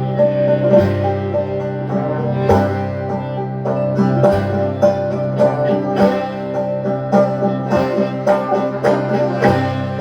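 Acoustic string-band music played live: plucked string instruments picking a steady rhythm over a held low note.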